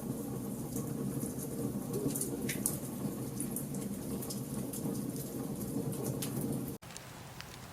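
Wood fire in a fireplace crackling, with sharp pops over a low rumble of burning. Near the end the sound cuts off abruptly and comes back quieter, with fewer pops.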